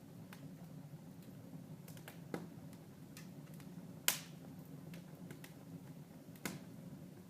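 Wood fire in a fireplace crackling, with scattered sharp pops, the loudest about four seconds in, over a quiet low steady background.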